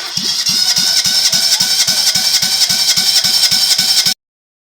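Toyota 1KR 1.0-litre three-cylinder engine cranked over on its starter motor for a compression test: a steady starter whine with even compression pulses about five a second, stopping about four seconds in. The even pulsing fits the healthy compression found on all three cylinders.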